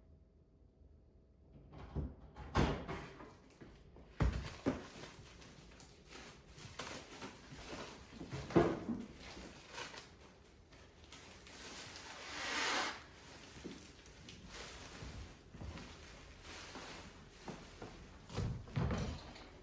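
Scattered knocks and clunks of things being handled in a kitchen while a drink is made, with a few louder thuds and a brief hiss about twelve seconds in.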